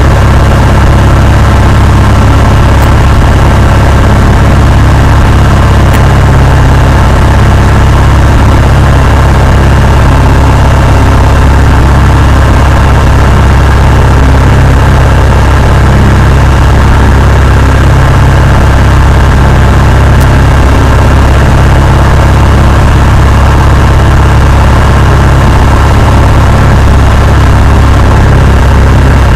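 Cessna 172's piston engine and propeller running in a loud, steady drone, with no change in pitch or level.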